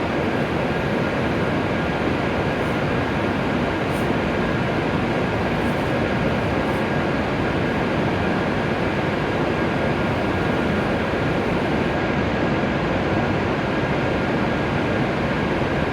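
Steady rushing hum of an E7 series Shinkansen train, with a faint high steady tone running through it; it neither rises nor falls.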